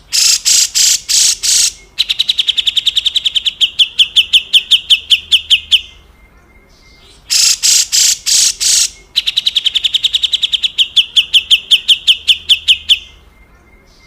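Cucak jenggot, a bulbul, giving its coarse rasping call: about five harsh, rasping notes followed by a long, fast run of sharp chattering notes at about seven or eight a second. The whole phrase is given twice.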